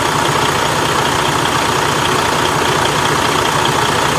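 2016 Freightliner truck's diesel engine idling steadily, with a faint steady whine on top, kept running so the air conditioning can be recharged.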